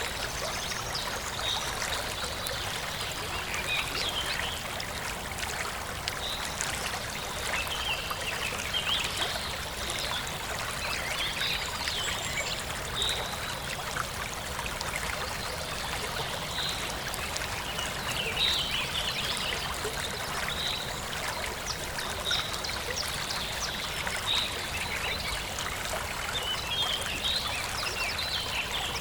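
Forest stream running and trickling steadily, with birds chirping in short, repeated calls throughout.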